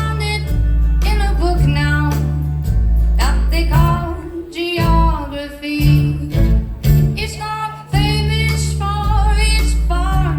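Live band performing a country song: a woman singing lead over acoustic guitar, with deep bass notes changing about every second.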